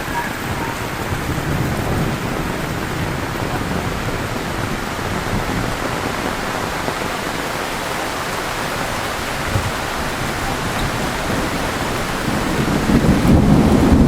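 Heavy rain falling steadily. Near the end a low rumble swells and the whole sound grows louder.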